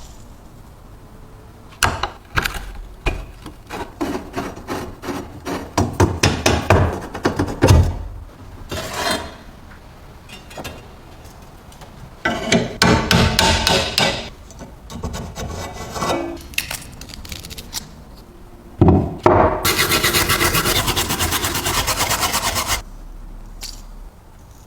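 Workshop tool work: a run of scraping and rasping strokes with knocks, then a few seconds of rapid, even buzzing near the end.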